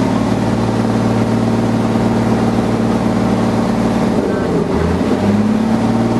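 Riverboat engine running under way with a steady drone; between about four and five seconds in its note dips briefly, then picks back up.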